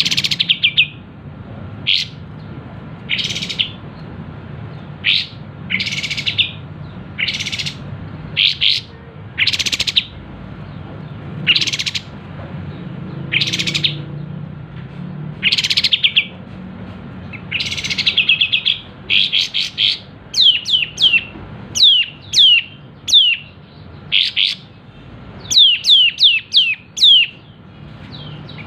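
Kapas tembak bulbul singing in short, loud bursts of rapid chirping notes, repeated every second or two. In the last third it quickens into runs of sharp, downward-sliding notes.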